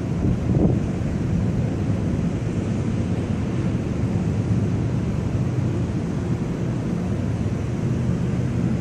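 Strong thunderstorm wind buffeting the camera microphone: a steady, low rush of wind noise.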